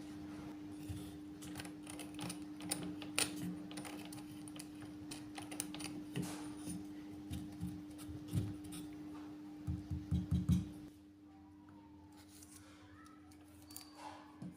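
Irregular clicks, taps and light scrapes of hard objects being handled, over a steady hum. About ten seconds in comes a quick run of four or five louder knocks, then it goes quieter.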